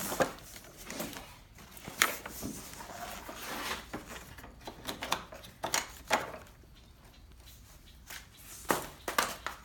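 Scattered light clicks and knocks at irregular intervals, about seven in all, from handling parts and tools while working on an ATV.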